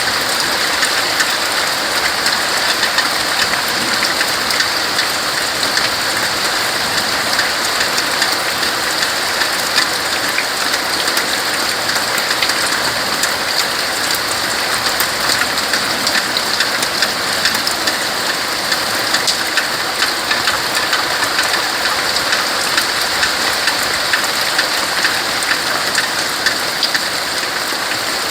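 Steady rain falling on tree leaves: a dense, even hiss of drops with many small patters.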